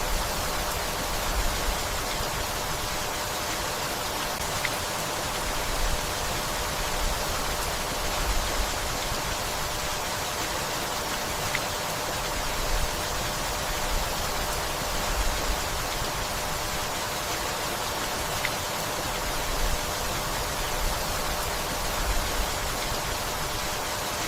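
Steady rainfall, an even hiss with no letting up, with brief low bumps every second or two.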